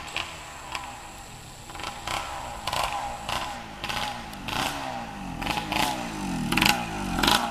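Yamaha IT175 two-stroke single-cylinder dirt bike engine revving up and down again and again, with sharp crackles, getting louder near the end.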